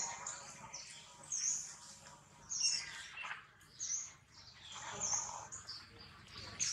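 A bird chirping in the trees, short high chirps repeating about once a second.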